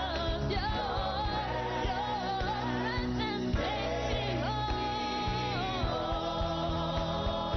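Gospel worship song: a sung melody with vibrato over band accompaniment with a steady beat.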